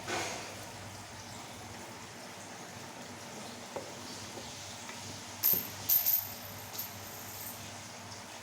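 Eating instant noodles: a few short, sharp slurping and utensil-clinking noises, loudest in a cluster about five and a half to six seconds in, over quiet room noise.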